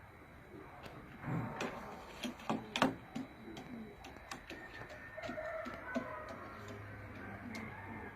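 Domestic pigeons cooing, with scattered sharp taps, several of them close together between about one and three seconds in.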